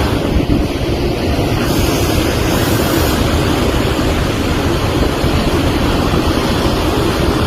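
Loud, steady rushing noise with a fluttering low rumble, like wind buffeting an outdoor microphone.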